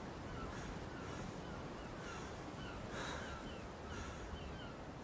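Birds calling in the background: a louder call every second or so, with many short, high, falling chirps between them.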